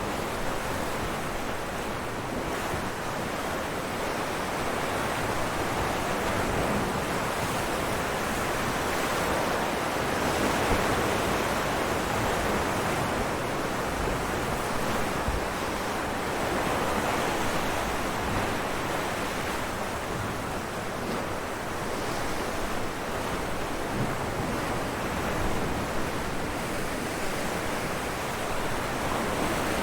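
Ocean waves breaking on rocks: a continuous wash of surf that swells and eases every few seconds.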